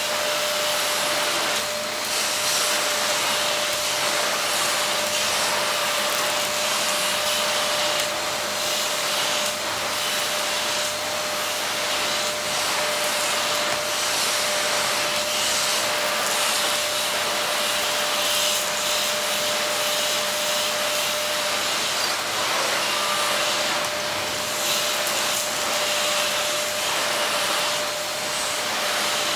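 Silvercrest SBBK 700 B2 700-watt canister vacuum cleaner running steadily: an even rush of air with a constant whine.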